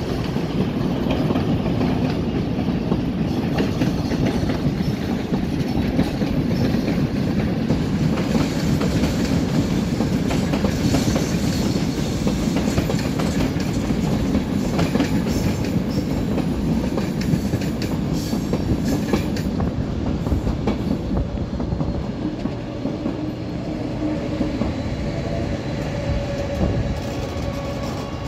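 Electric passenger trains rolling through station points and over rail joints, wheels clacking steadily under a dense rumble. After about twenty seconds a steady whine joins in as an electric locomotive comes through the points.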